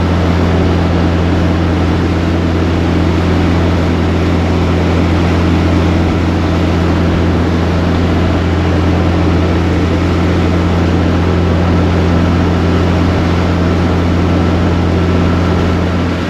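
Steady, loud drone of a truck's engine and road noise heard from inside the cab at constant cruising speed, a deep even hum that ends abruptly near the end.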